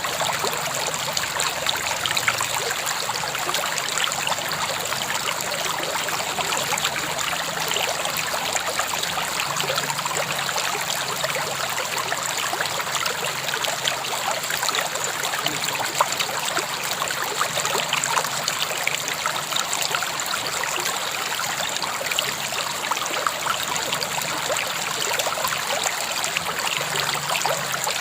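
A river flowing steadily, the water running and trickling with many small splashes.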